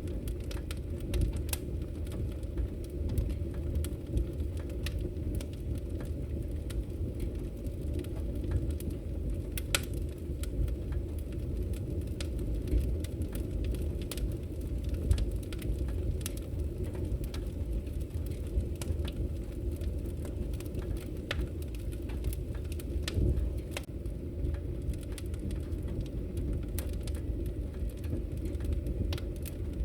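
Wood fire burning in a fireplace: a steady low roar of flames with frequent sharp crackles and pops scattered irregularly throughout.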